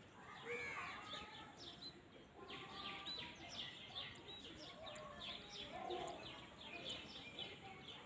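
Several birds chirping and calling together, many short overlapping chirps with some lower calls mixed in, over faint outdoor background noise.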